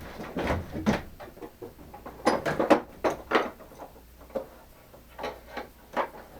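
Machinist's steel parallels being removed and handled: scattered light metal clinks and knocks, a few at a time.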